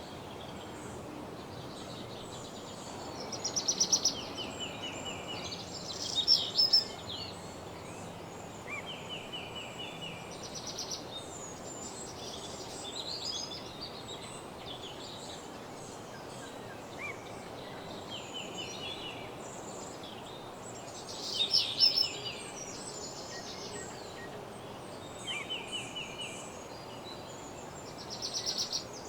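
Woodland songbirds singing short, rapid trilled phrases over and over, with a few louder, higher trills about 4, 6 and 22 seconds in, over a steady background hiss.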